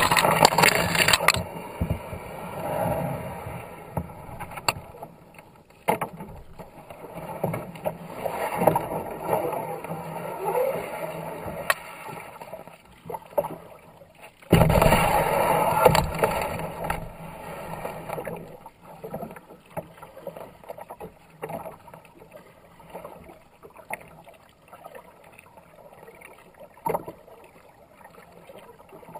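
Kayak paddle strokes splashing and water rushing past the hull on a fast-running river, with a few sharp knocks. The water noise swells and fades unevenly, loudest near the start and about halfway through.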